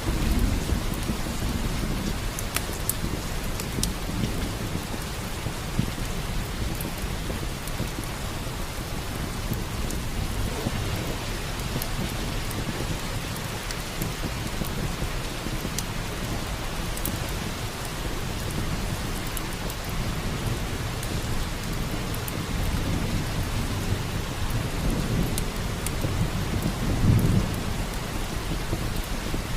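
Steady heavy rain, with low rolls of thunder near the start and a louder one near the end. Scattered sharp crackles from a wood fire in a fireplace sound over the rain.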